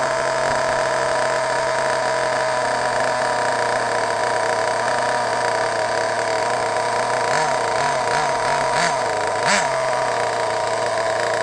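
Nitro RC car's SH .18 glow engine idling steadily just after starting, with a series of short throttle blips near the end, the last one the biggest.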